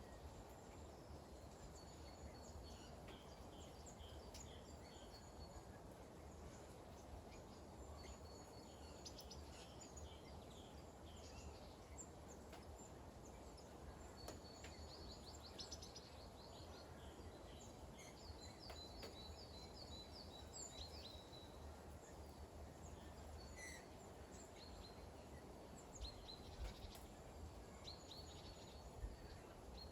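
Small birds chirping and giving short rapid trills again and again over a faint steady patter of light rain. A couple of soft thumps come near the end.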